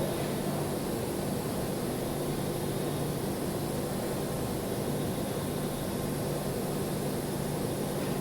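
Welding equipment running: a steady hiss with a low hum underneath, unchanging throughout.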